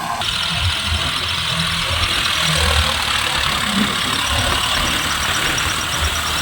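Tractor engine running steadily, with a fast even ticking over a steady hiss; the sound changes abruptly a fraction of a second in.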